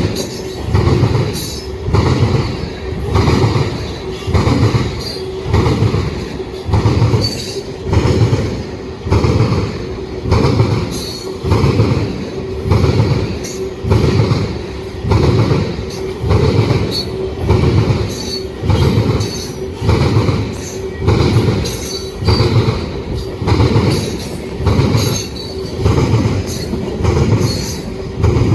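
Freight cars of a long mixed freight train rolling past on steel wheels, with a loud regular pulse about once a second as each car's wheel sets go by, and a faint steady squeal from the wheels over it.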